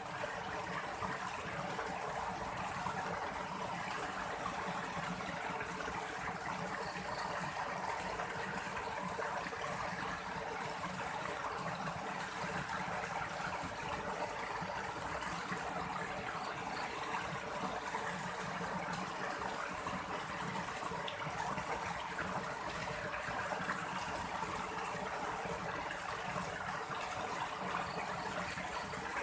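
Stream water running steadily, an even rushing noise with no break.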